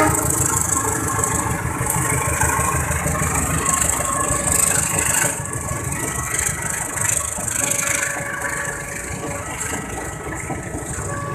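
A diesel-hauled passenger train running through a level crossing close by: a low engine rumble with the high rushing hiss and clatter of wheels on rail. It is loudest for the first five seconds as the locomotive goes past, then a little quieter as the coaches roll by, with the crossing's warning siren sounding steadily underneath.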